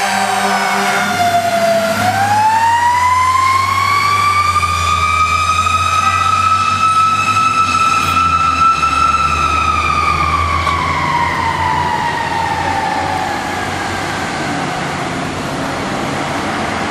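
Fire engine siren responding to an alarm: it winds down, then rises slowly through one long wail and falls away, over the low rumble of the truck's engine. An air horn cuts off about a second in.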